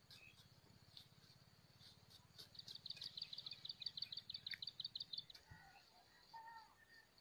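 A songbird's rapid trill in the distance: an even run of high chirps, about seven a second, lasting nearly three seconds. Some faint scattered clicks and a few softer bird calls after it.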